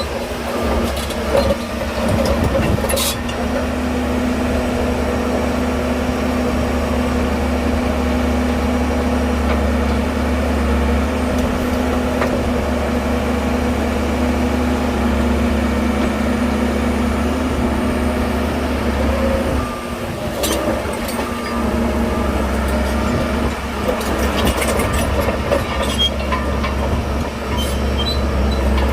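Diesel engine of heavy earthmoving equipment running steadily with a deep rumble, broken by a few sharp metallic knocks.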